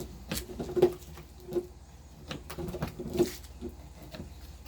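A knife cutting a blacktip shark fillet into steaks, with a series of irregular sharp knocks and taps from the blade.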